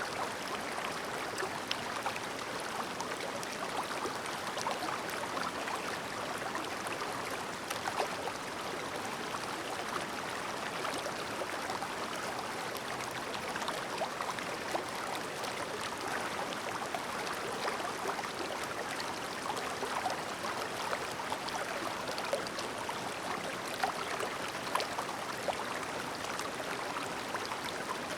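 A clear shallow river babbling over stones: a steady trickling and gurgling with frequent small splashes.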